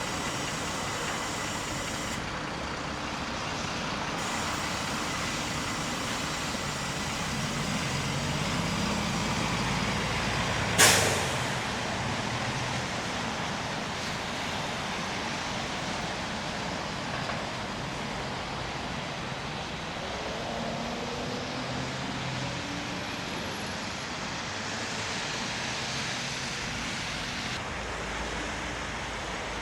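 Steady street traffic with heavy vehicle engines passing, their pitch rising and falling. There is a short, loud hiss about eleven seconds in.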